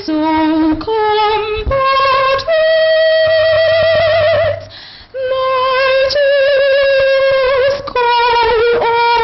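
A solo singer vocalising without words, unaccompanied: a string of long held notes with vibrato, stepping from one pitch to the next with brief breaks between them.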